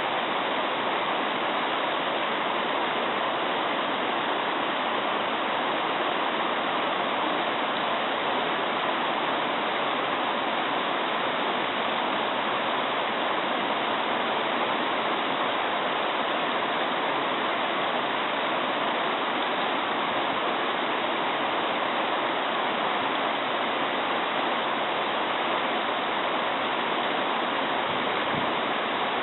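Mountain stream babbling over rocks: a steady rush of flowing water with no change in level.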